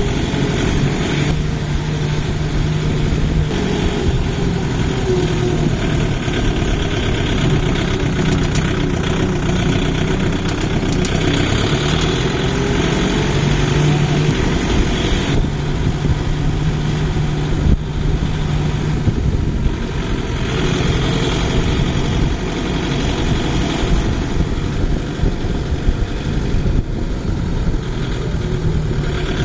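Tractor engine running steadily, a continuous low drone whose pitch shifts slightly now and then.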